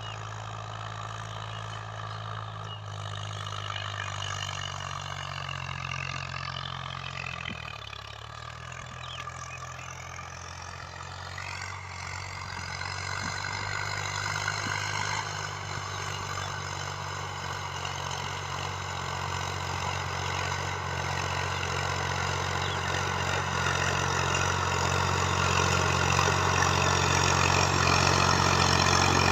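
Sonalika DI 745 tractor's diesel engine running steadily, growing gradually louder through the second half.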